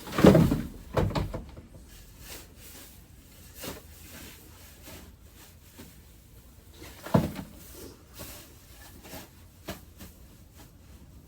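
Dull, low booming thumps, a loud pair near the start and another about seven seconds in, which those present take for frost quakes: ground cracking as it freezes in the extreme cold.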